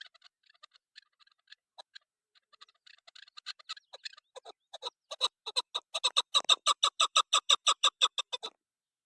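Female chukar partridge calling a series of short clucking notes. They begin faint and scattered, then build into a loud, rapid run of about five a second that stops shortly before the end.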